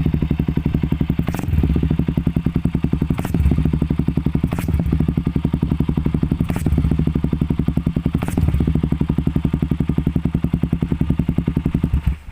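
Motorstar Cafe Racer 400 motorcycle idling through an aftermarket bullet-style exhaust pipe: a steady, bassy, even pulse that swells slightly a few times with light throttle. It cuts off abruptly near the end.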